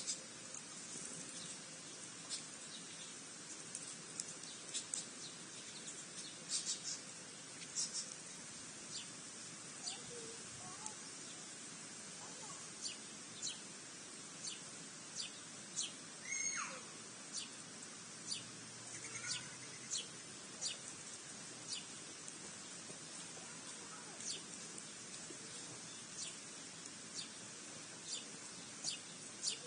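Songbirds calling in the open: short, high chirps repeating about once a second, with one longer call about halfway through that drops steeply in pitch, over a steady background hiss.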